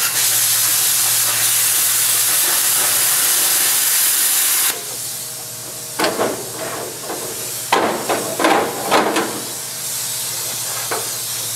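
A metal-cutting torch hisses steadily for about four and a half seconds, then cuts off, with a steady low electrical hum behind it. A flurry of sharp metal knocks and clanks follows, a few seconds later.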